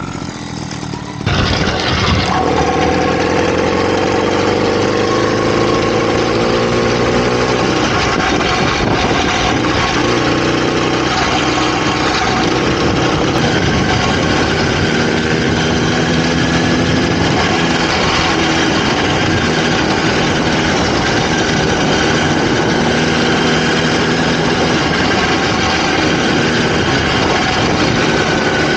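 Two-stroke motorized-bicycle engine running steadily, coming in loud about a second in, its pitch drifting a little with the throttle.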